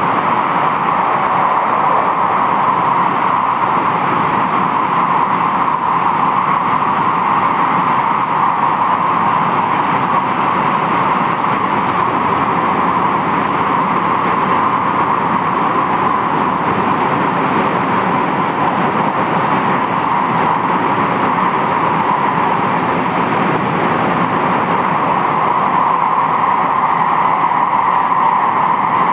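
Interior running noise of a JR West 223-5000 series electric train travelling at a steady speed: an even rumble and hiss of wheels on rail with no change in pace.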